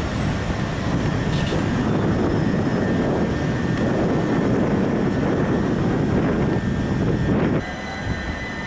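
c2c Class 357 electric multiple unit passing close by: a steady rumble of wheels on rail and running gear that drops away suddenly near the end.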